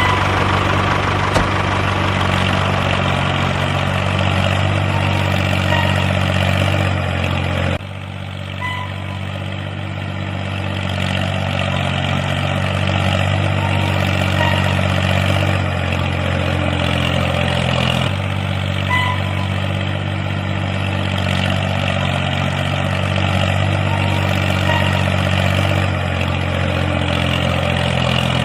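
Tractor engine idling steadily, with abrupt shifts in its tone about eight and eighteen seconds in.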